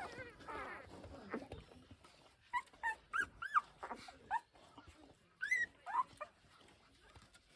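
Week-old Pungsan puppies whimpering: about eight short, high squeals that rise and fall in pitch, in two bunches, after soft rustling in the first second or so.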